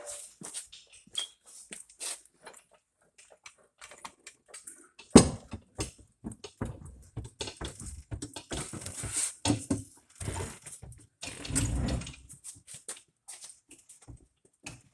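Irregular knocking and clattering of hand work on metal parts, with one sharp, loud knock about five seconds in and busier clatter after it.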